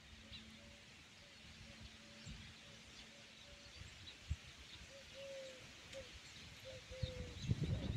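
Birds calling in open farmland: a steady series of short, repeated low-pitched notes, with a couple of longer falling notes in the second half and faint high chirps. A louder low rumble of noise comes in near the end.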